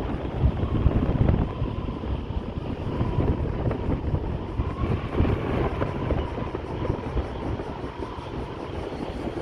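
Strong, gusty wind buffeting the microphone: a continuous low rumbling rush that swells and dips unevenly, driven by an approaching typhoon.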